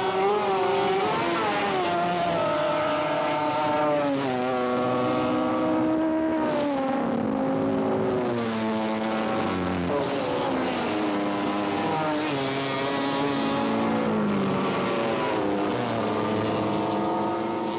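Several superbike racing motorcycle engines running at high revs together, their pitch repeatedly stepping down and climbing again as they brake, change gear and accelerate.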